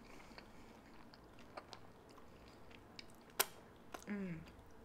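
Faint close-miked chewing of a mouthful of hash brown, egg and cheese sauce: soft wet mouth sounds with scattered small clicks and one sharper click about three and a half seconds in. Near the end comes a brief falling vocal sound.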